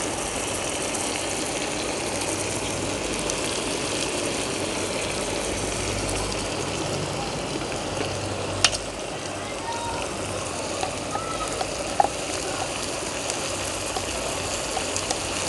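Potatoes, vegetables and meat sizzling steadily in a hot black cauldron as sour cream is poured over them, with one sharp click about nine seconds in.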